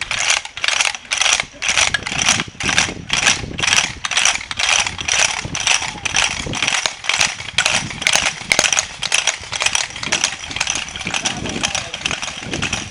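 Wooden hand rattles (Klappern) clattering in a steady beat of about three or four strokes a second, the strokes blurring into a dense, continuous clatter in the second half.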